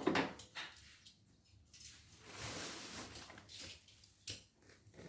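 Handling noises: a sharp knock at the start, scattered clicks and knocks, and a scraping rustle from about two seconds in that lasts about a second and a half.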